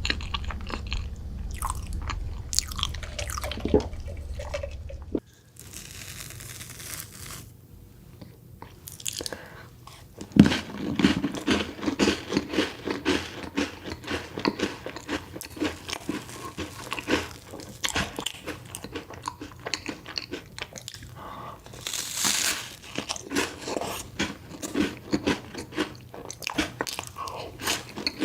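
Close-miked eating sounds of chocolate desserts being bitten into and chewed, crunchy and rapid. There are sparse bites at first, then dense chewing with several strokes a second from about ten seconds in. A low hum under the first few seconds cuts off suddenly.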